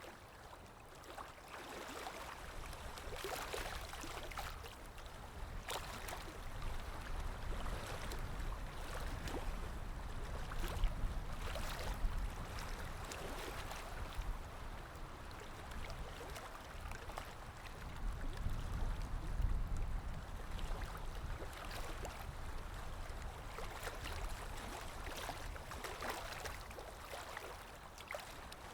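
Underwater water ambience: a muffled, steady wash of moving water with fizzing bubbles and gurgles and a deep rumble that swells up about ten seconds in and again near twenty seconds.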